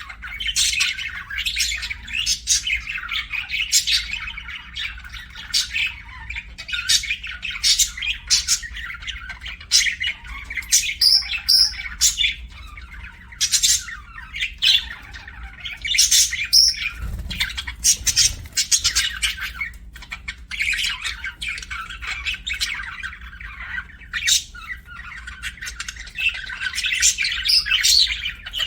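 Budgerigars chirping and chattering: a busy, near-continuous run of short, sharp calls with a couple of brief lulls.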